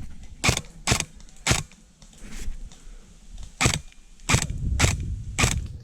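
Airsoft gun firing single shots: seven sharp mechanical cracks, three close together in the first second and a half, then four more after a pause.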